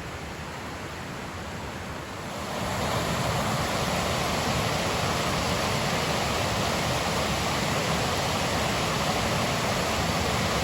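Creek waterfall rushing steadily, growing louder about two seconds in and then holding steady.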